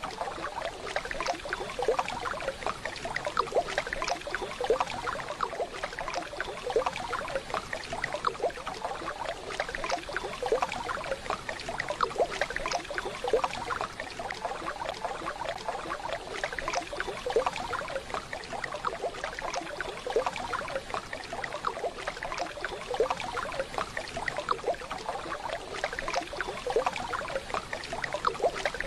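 Waterfall, with water splashing and gurgling in a steady rush.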